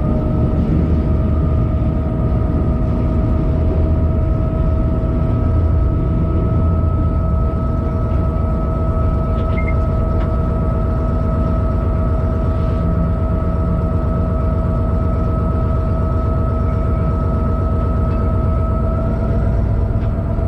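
Freight locomotive running, heard from inside the driver's cab: a steady, loud low rumble with a steady whine over it.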